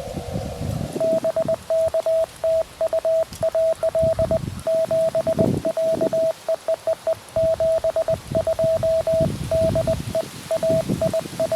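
Morse code (CW) from a QRP Labs QMX ham radio transceiver: a single steady tone keyed into dots and dashes at an even pace. It starts about a second in, after a short stretch of narrow receiver hiss.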